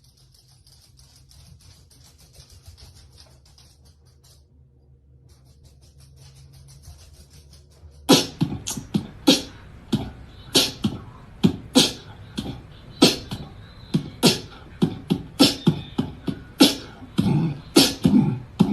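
A quiet stretch of faint hum and hiss, then about eight seconds in a sharp, rhythmic beatbox-style beat starts suddenly, with crisp percussive hits about two a second.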